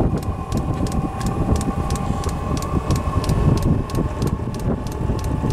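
Chinese diesel heater running as it winds up: a steady whine from its fan motor over a low rumble of combustion, with the fuel dosing pump ticking about three to four times a second.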